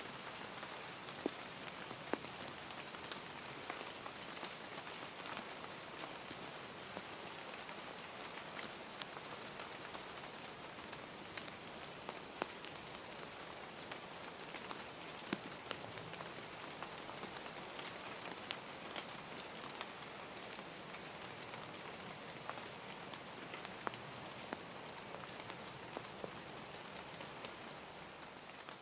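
Steady rain falling, a continuous hiss with scattered sharp drips and taps of drops hitting a surface.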